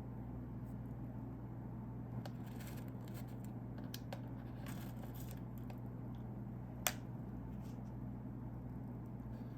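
Quiet handling of a DIY candy kit's small plastic pieces: light scrapes and soft taps, with one sharp click about seven seconds in, over a steady low hum.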